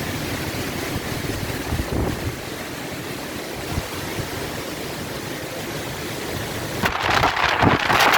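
Gale-force wind and heavy rain making a steady rushing noise. Near the end a stronger gust buffets the microphone, louder and choppier.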